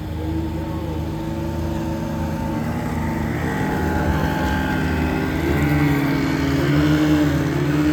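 Boat's outboard motor running under way, speeding up about three and a half seconds in, its hum rising in pitch and getting louder.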